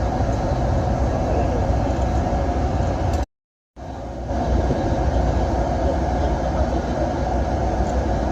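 Bus at speed on a highway: a steady, loud rumble of engine and road noise. About three seconds in the sound cuts out completely for about half a second, then fades back in.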